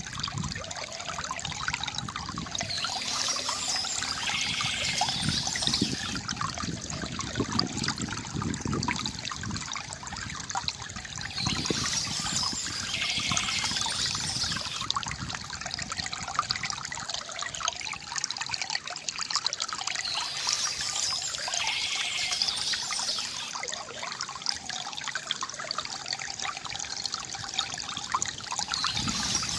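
Water trickling and gurgling steadily from a bamboo fountain, with high bird chirping that comes and goes about every nine seconds.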